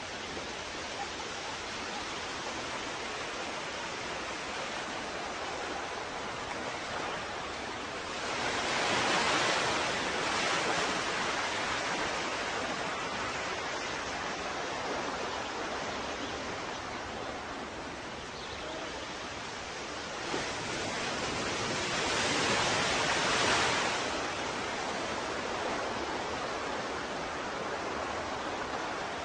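Ocean waves: a steady wash of surf, with two bigger waves swelling up and breaking, about a third of the way in and again about three quarters of the way through.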